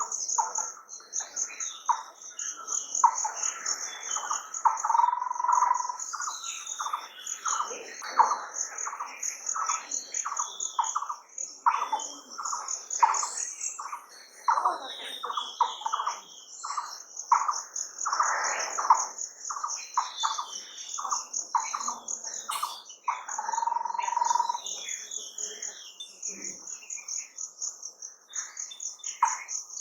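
Several birds calling and chirping in a busy chorus of short, repeated calls, over an insect's steady high-pitched pulsing trill.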